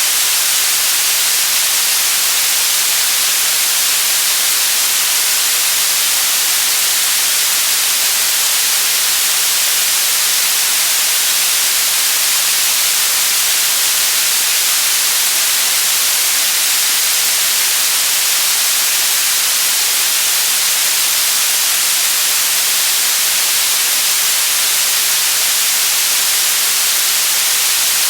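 Steady white noise: an even, unchanging hiss that is loudest in the treble and never varies.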